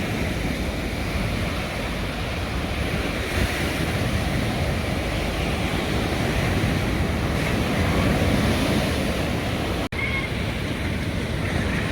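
Ocean waves washing in steadily, with wind buffeting the microphone. The sound drops out for an instant about ten seconds in, and a few faint bird chirps come through near the end.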